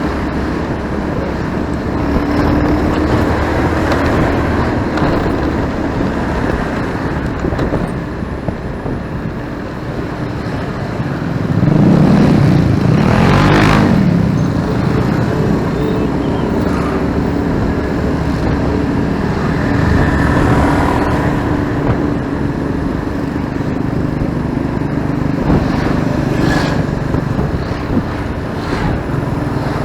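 Motorcycle engine running steadily while riding through city traffic, with road noise. Another vehicle passes close about twelve seconds in, the loudest moment, and a second one comes by around twenty seconds.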